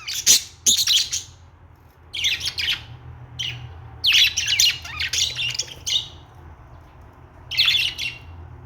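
Budgerigars chirping and warbling in short bursts of rapid high chirps and squawks, four or five times, with brief pauses between.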